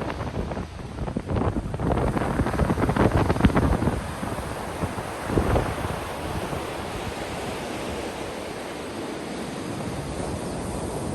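Ocean surf on a beach: a wave breaks and crashes about two seconds in, a smaller one follows a couple of seconds later, then a steady wash of water.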